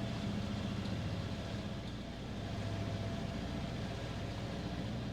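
A sailing catamaran's diesel engine running steadily under way: a constant low drone with a faint steady whine above it.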